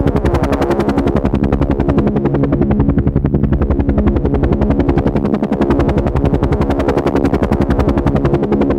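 Helicopter running steadily: a rapid, even chop of the rotor blades over a steady engine drone.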